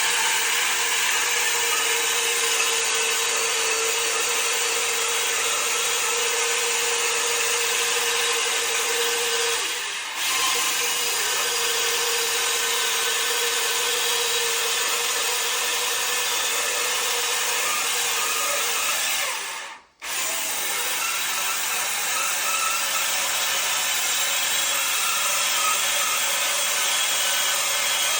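England Bander 300 portable bandsaw running and sawing through oak timber, a steady loud machine noise with a faint steady hum underneath. It dips slightly about ten seconds in and breaks off for an instant about twenty seconds in before carrying on.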